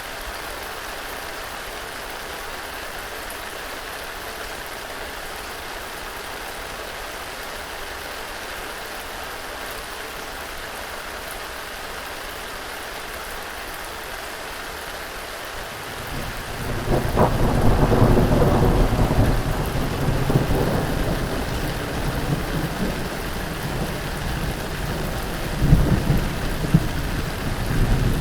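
Steady rain hissing, then a little over halfway a loud roll of thunder comes in and rumbles on, with another sharp crack of thunder near the end.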